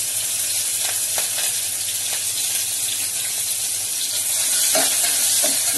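Chopped green chillies and ginger frying in hot oil with tempering seeds in an aluminium pot: a steady sizzling hiss. There are a few faint clicks, and a spoon stirs the pieces in the latter half.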